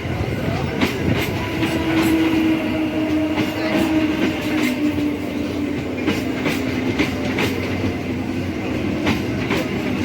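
Electric multiple-unit (EMU) local train running on the track, its wheels clacking over rail joints at irregular intervals, with a low steady whine that slowly drops in pitch.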